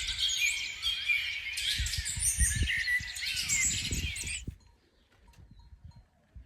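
Many small songbirds chirping and singing over one another in a busy chorus, with a few low bumps underneath; it cuts off suddenly about four and a half seconds in.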